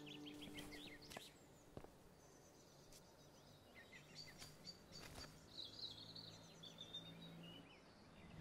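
Faint outdoor birdsong, quick repeated chirps and trills, with a few soft clicks. The last notes of music die away in the first second.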